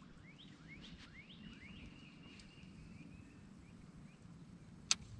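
Faint birdsong: a run of quick rising chirps that runs into a held high whistle, over a steady low hum. A single sharp click near the end.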